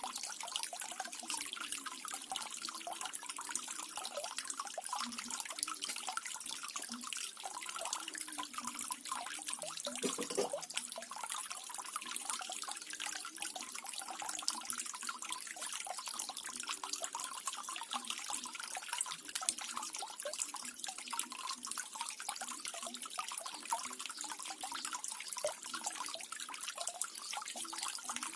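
Small waterfall splashing and trickling steadily, with many fine droplet splashes and no change in flow. One brief lower-pitched splash stands out about ten seconds in.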